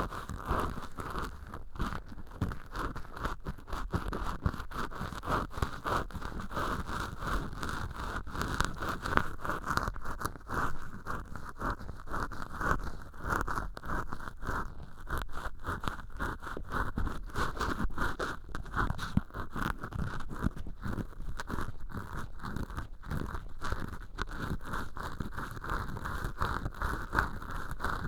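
Cotton swab rubbing inside an ear hole made of acrylic dish-scrubber sponge: a continuous dense, scratchy rustle of quick strokes.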